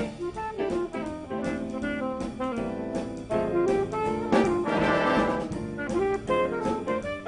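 School jazz band playing a holiday tune, its brass section carrying the melody in held chords, with a loud brass swell about halfway through.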